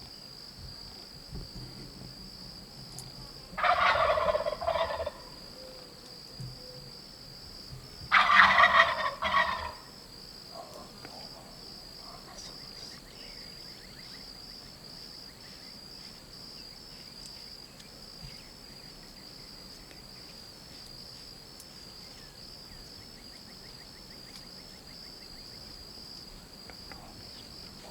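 Wild turkey tom gobbling twice, each gobble a rapid rattling call of about a second, the second one about four seconds after the first and louder.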